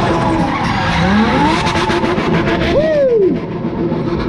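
Performance car engines revving hard during burnouts and drifting, with tyre squeal and skidding. One engine revs up sharply and falls back about three seconds in.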